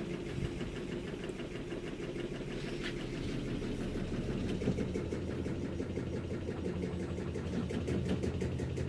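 Maytag MVWC465HWO top-load washer in its high-speed spin, a steady hum with a fast rattle, from the drain tube at the back that is not tied down.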